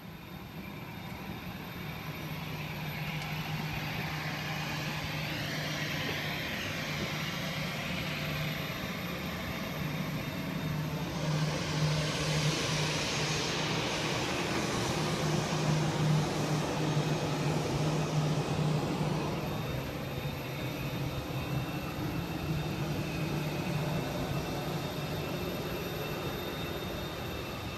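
Steady low hum of a parked airliner's cabin, with jet noise from another aircraft outside rising and falling around the middle.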